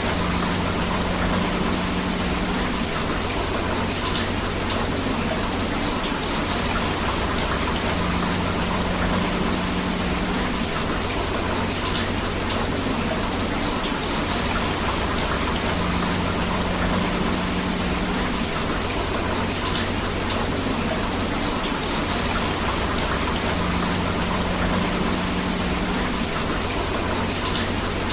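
Steady rain together with a flowing river, an even rushing hiss with no breaks. The same faint pattern recurs about every eight seconds, as in a looped recording.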